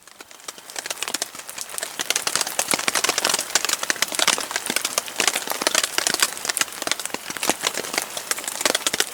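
Rain falling on a Warbonnet Superfly hammock tarp: a dense, steady run of small drop taps that fades in over the first couple of seconds.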